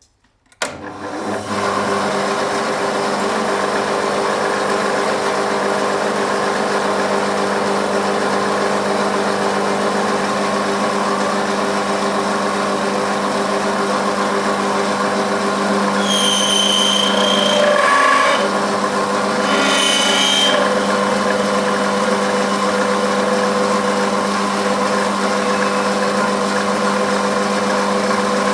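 A metalworking machine tool starts up about half a second in and runs with a steady hum. Twice, about two-thirds of the way through, a brief high-pitched squeal rises over it.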